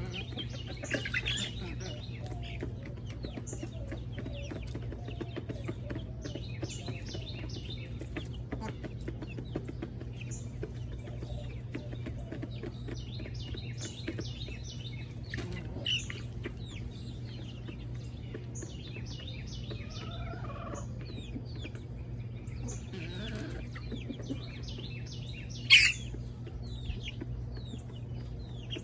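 Backyard chickens clucking softly among many short bird chirps, with one sharp, loud call near the end, over a steady low hum.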